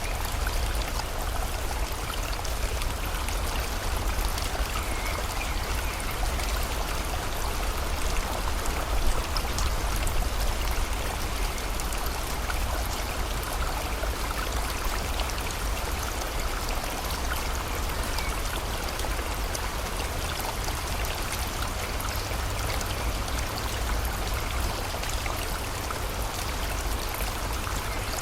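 Steady rushing of a river or stream, with rain falling and a deep, even low rumble underneath.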